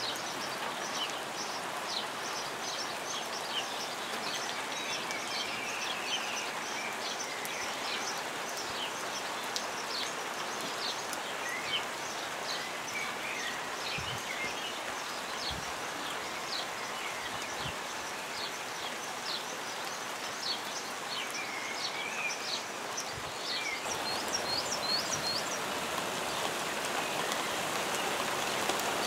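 Light rain falling steadily while birds sing, many short high chirps and a few warbling phrases over the patter. The rain grows a little louder in the last few seconds.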